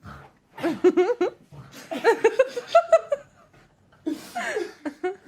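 A person laughing in several short bursts of quick, repeated pulses.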